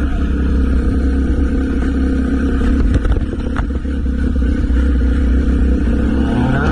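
Motorcycle engine running under way with a steady low rumble, the revs climbing near the end.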